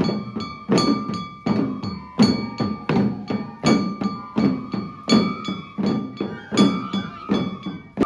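Jangara festival music: drums and small metal gongs struck together in a steady repeating pattern, a strong beat about every one and a half seconds with lighter strokes between, each stroke a thud with a bright ringing.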